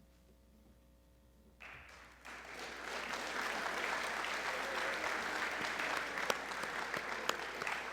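Quiet room tone, then audience applause breaks out about a second and a half in, building over the next second or so and carrying on steadily, with a few sharp individual claps standing out.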